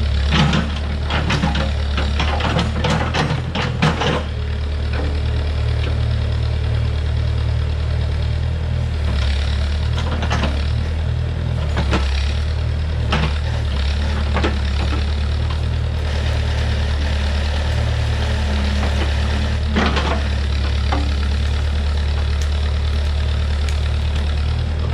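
Heavy equipment engine running steadily at a low idle. A rapid run of clanks and knocks comes in the first few seconds, with a few single knocks later.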